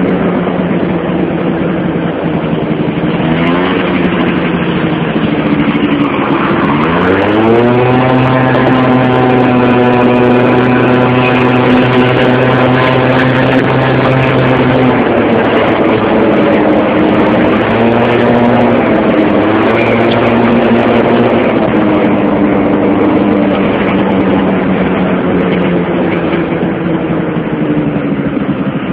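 Motorcycle engine running under load, its pitch climbing sharply about a quarter of the way in, holding steady for several seconds, then rising and falling as the throttle changes.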